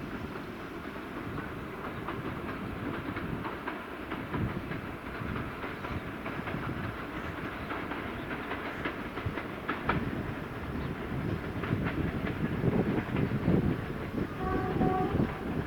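A train rolling along the track, its wheels clicking over the rail joints in an irregular run.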